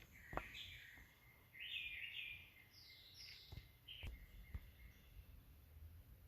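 Faint bird chirps, a few short calls in the first few seconds, with a handful of light clicks.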